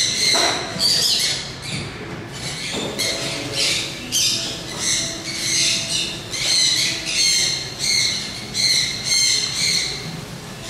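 A bird calling over and over, short squawking calls repeated a little faster than once a second.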